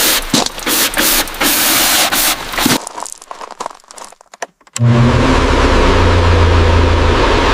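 Heavy rain-like noise full of sharp crackles, which fades out about a third of the way in. After a short quiet gap, a steady low engine or motor hum starts abruptly and keeps running.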